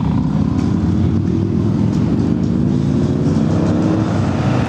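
Harley-Davidson Fat Boy's 96-cubic-inch Twin Cam V-twin engine idling steadily.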